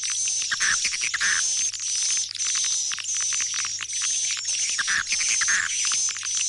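Swiftlet lure call for a swiftlet house: a dense, unbroken run of rapid clicks and high twittering chirps. Pairs of lower, rougher calls stand out about a second in and again near five seconds in.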